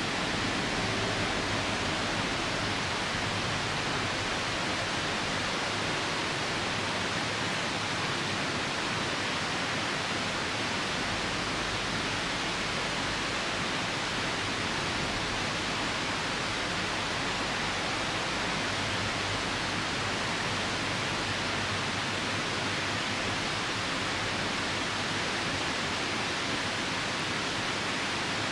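Steady rushing of a nearby river mixed with rain: an even, unbroken hiss with no distinct crackles standing out.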